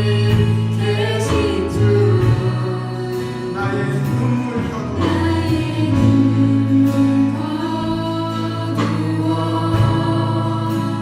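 A church praise team singing a worship song in Korean, backed by a band with a strong bass line and cymbal hits.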